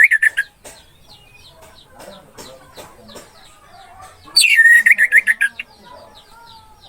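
Orange-headed thrush song: a loud phrase that sweeps steeply down in pitch and breaks into a fast run of short repeated notes, ending just after the start and coming again about four seconds in. Faint chirps and calls of other birds fill the gaps.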